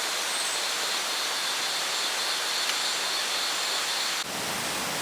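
Steady rushing of a waterfall, with a faint high steady whine over it. About four seconds in the sound changes abruptly to a similar rushing with more low rumble.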